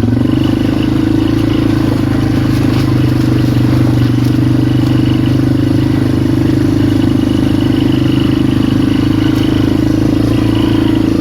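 Polaris Magnum 425 ATV's single-cylinder four-stroke engine running at a steady, even speed while riding.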